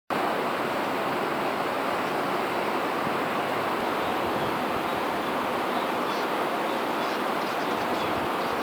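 Steady rushing noise at an even level, with a few faint, short high sounds about six to eight seconds in.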